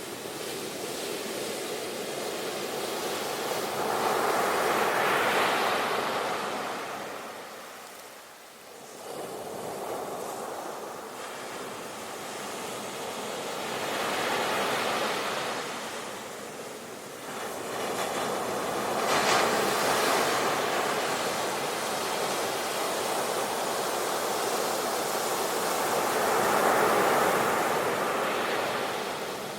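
Sea waves breaking and washing on a shore, in swells that rise and fall every several seconds.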